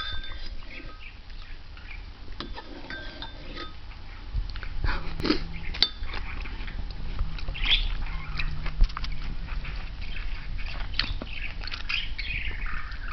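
Scattered short, high chirps and squawks from an animal, with a few sharp clicks over a steady low hum.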